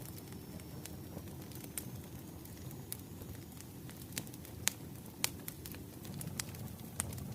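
Wood fire burning with a low steady rumble and irregular sharp crackles and pops, two of them louder about two-thirds of the way through.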